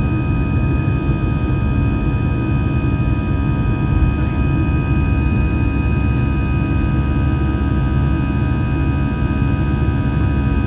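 Airbus A319 cabin drone, heard inside the cabin: its CFM56 engines running steadily, a low rumble with several steady whining tones over it.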